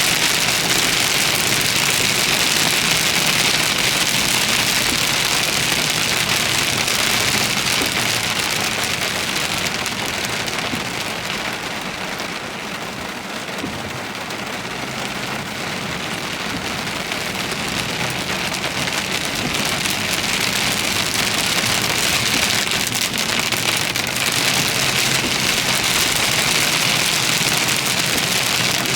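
Heavy rain pouring onto a car, a dense steady hiss that eases somewhat about halfway through and then builds back up, over the low steady hum of the vehicle.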